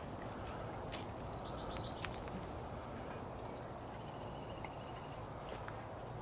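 Quiet outdoor ambience with a faint low hum and a few light clicks; a small bird gives a falling run of high notes just after a second in and a rapid high trill about four seconds in.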